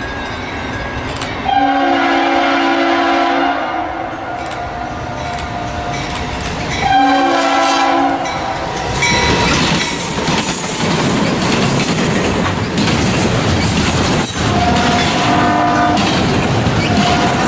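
Diesel locomotive air horn sounding a multi-note chord in two long blasts, then the train passing close by with a loud, steady rumble and wheel clatter on the rails. The horn sounds once more, fainter, near the end.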